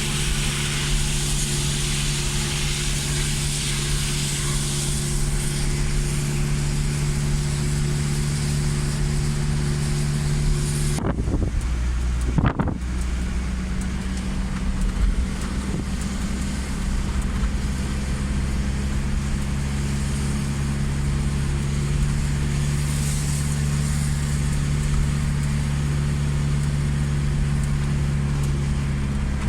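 A vehicle engine running with a steady low hum under a continuous hiss of heavy rain. About eleven seconds in, the sound breaks off briefly with a couple of knocks, then the same hum and hiss carry on.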